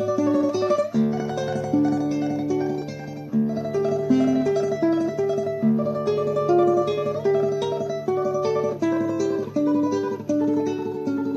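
Solo classical guitar playing a tremolo passage: a melody in fast repeated notes over a plucked bass line.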